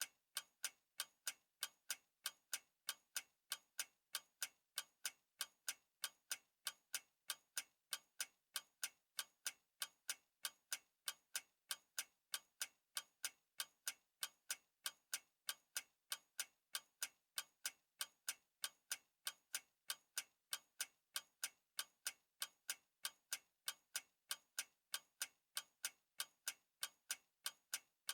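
A clock ticking in a steady, even rhythm of sharp, evenly spaced ticks.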